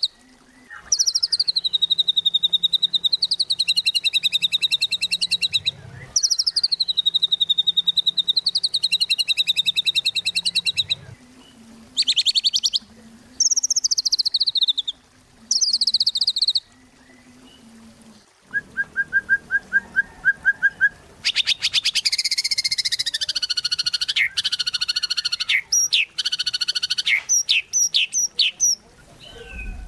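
White-rumped shama (murai batu) singing in bouts of fast rattling trills a few seconds long, with short pauses between them. Later comes a lower trill, then a trill that sweeps down in pitch, then a quick run of short sharp notes.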